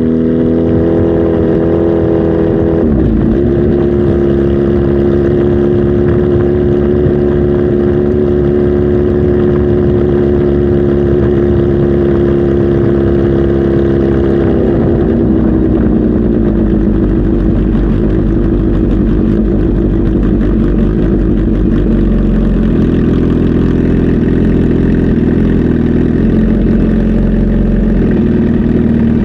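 Kawasaki Z H2 SE's supercharged inline-four engine running at held revs, then dropping back to a lower idle about fifteen seconds in and idling on.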